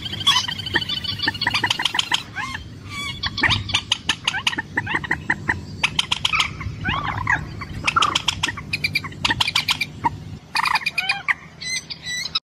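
A red-shielded rail-family waterbird (trích rẽ mồng đỏ) giving a mate-attracting call: long runs of rapid, clicky repeated notes mixed with short squawking downslurs, over a steady low hum. The calls cut off abruptly near the end.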